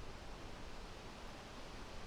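Wind blowing through forest trees: a faint, steady rustle of leaves with a low rumble underneath.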